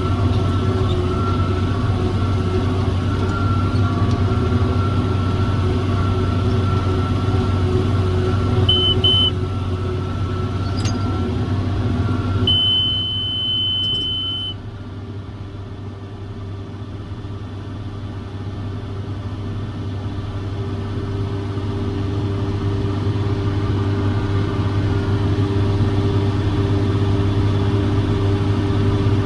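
John Deere 7410 tractor's six-cylinder diesel running steadily while pulling a round baler; it quietens about halfway through and slowly builds back up. Two short electronic beeps sound about nine seconds in, then one longer beep of about two seconds.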